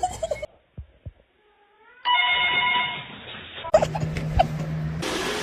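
A short near-silent gap with a few soft knocks, then a steady electronic ringing tone lasting about a second and a half. After it comes a low steady hum with a couple of knocks, then a steady hiss.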